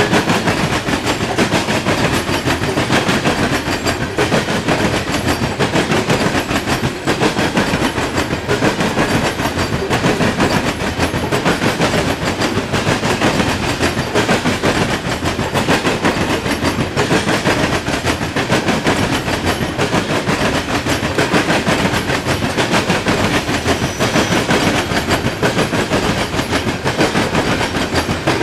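Freight cars of a Norfolk Southern coal train rolling steadily past, with a loud continuous rattle of steel wheels clicking over the rails.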